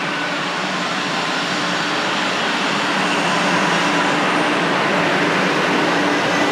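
A JR West 500 series Shinkansen train pulling away from the platform: a steady electric hum with the rolling noise of the wheels, growing a little louder about halfway through as it gathers speed.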